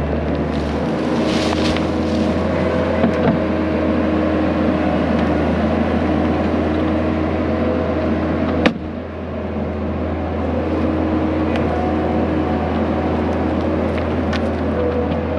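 Skid steer engine running steadily under load while working the bucket, with a sharp knock about nine seconds in, after which the engine briefly drops and recovers.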